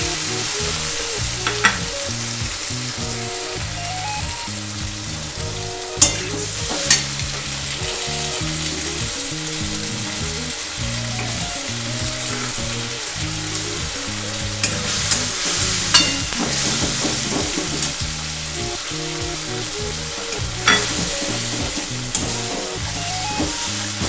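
Ground spice paste and fried onions sizzling in hot oil in a metal kadai as the masala is fried down, stirred with a metal spatula that scrapes and clicks against the pan a few times.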